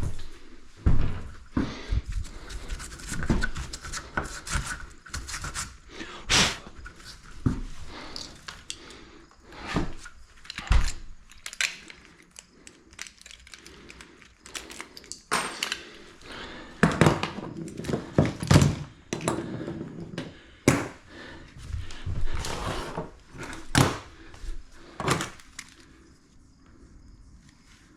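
Irregular knocks, clunks and scraping of things being handled and moved about, a sharp hit every second or two. The sounds thin out near the end.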